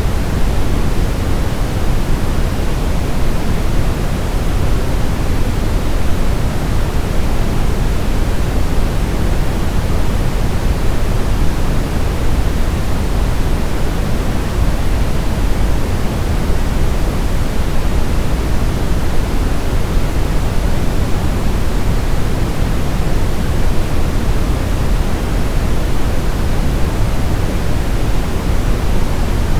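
Steady synthetic noise with its energy weighted toward the low end, like pink noise: a constant deep hiss with no change or pattern.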